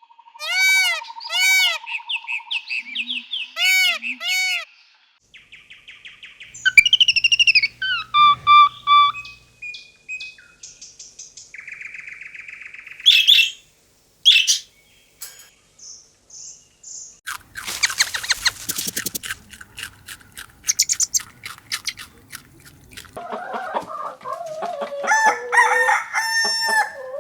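A series of different bird calls: repeated arching chirps, then assorted calls and squawks, ending with chickens clucking.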